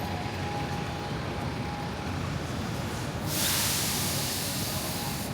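Steady low city background hum. About three seconds in, a loud, even hiss of air or spray starts and lasts about two seconds.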